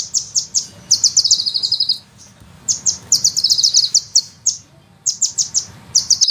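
Sunbird singing: fast runs of sharp, high chirping notes in bursts of about a second, with a rolling trill mixed in, broken by short pauses.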